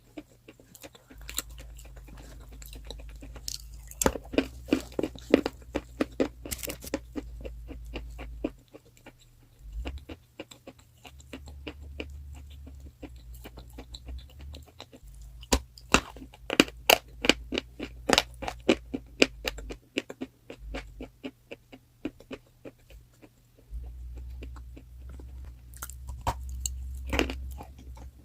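Crunchy chalk being bitten and chewed close to the microphone: runs of sharp crackling crunches that come in bursts, densest about four seconds in and again around sixteen to nineteen seconds, with a low hum underneath at times.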